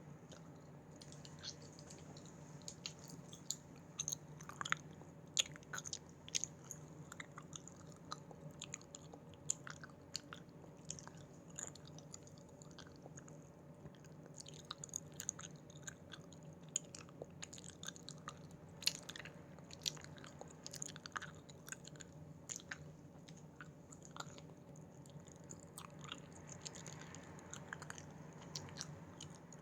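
Close-miked chewing of Haribo gummy candies: wet, sticky mouth sounds with many small, irregular clicks and smacks, over a faint steady hum.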